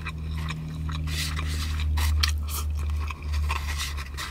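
Close-up chewing and biting of food, with many quick wet mouth clicks and some scrapes, over a steady low hum that is loudest about two seconds in.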